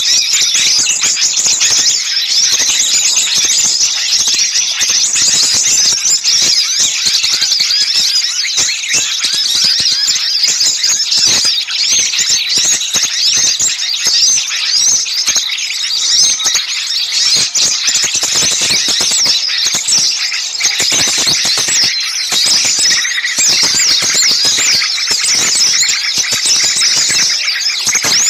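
Many small songbirds chattering and squeaking at once in a dense, continuous, agitated chorus of high chirps: a 'ribut' bird-luring call mix meant to draw small birds in.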